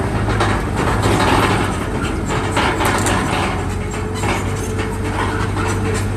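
Bulldozer's diesel engine running steadily while its steel crawler tracks clank and rattle in irregular knocks.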